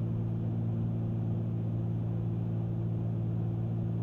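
Twin piston engines of a Cessna 310Q in cruise, a steady, even drone with no change in pitch or level.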